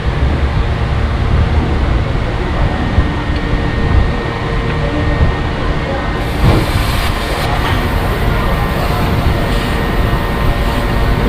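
DAF heavy truck's diesel engine running with a steady low rumble. About six seconds in, a higher hiss joins it.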